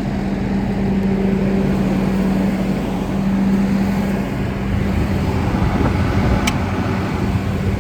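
Farm machinery's diesel engine idling with a steady low hum. A brief high tick sounds about six and a half seconds in.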